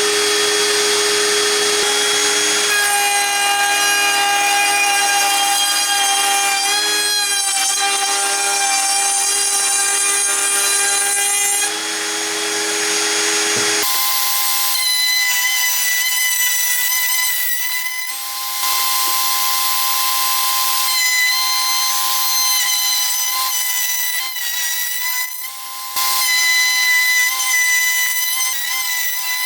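Electric power tool running steadily at full speed on wood, with a whine of steady pitches. About halfway through, the whine jumps to a higher pitch and keeps running, with a few short dips.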